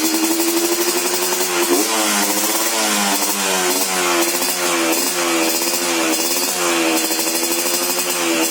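Yamaha RX King two-stroke single-cylinder engine running through an aftermarket 'telo' racing exhaust. It idles steadily, then from about a second and a half in it is revved in a series of short throttle blips, the pitch rising and falling about once a second.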